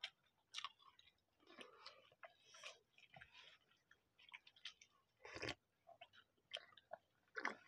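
Faint mouth sounds of people eating rice biryani with their fingers: chewing, lip smacks and small wet clicks, scattered and irregular. A fuller, louder thump comes about five and a half seconds in, and another near the end.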